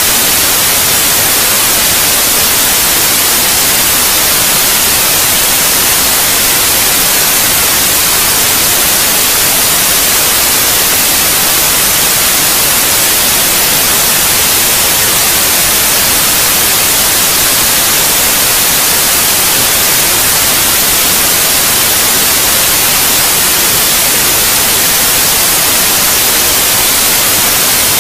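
Steady, loud white-noise hiss, even and unchanging, strongest in the high end.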